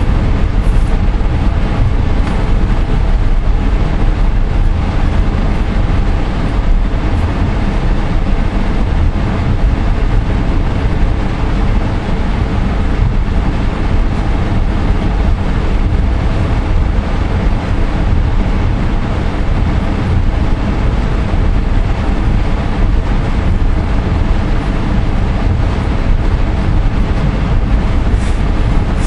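Steady running noise of a VIA Rail passenger train heard from inside the car: wheels rolling on the rails as the train crosses a steel truss bridge, with a continuous low rumble and a faint hum over it.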